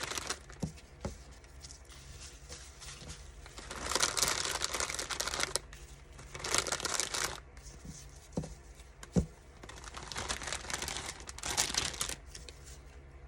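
Crinkling and rustling as a spool of ribbon is handled, in three stretches of one to two seconds each, with a few light taps between them and one sharper knock about nine seconds in.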